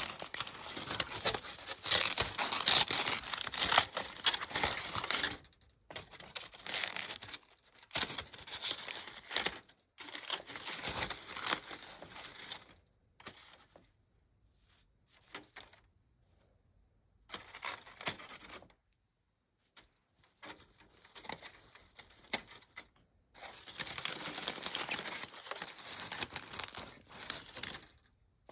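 Close-up crunching of a crunchy snack, crackly and dense, coming in bursts of a few seconds with quiet pauses between them.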